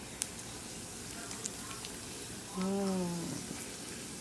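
Diced potatoes frying in coconut oil in a skillet: a steady sizzle with a few light clicks.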